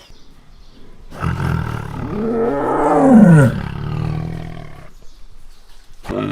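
A large animal roaring: one long call whose pitch rises and then falls, loudest about three seconds in, with the start of another call near the end.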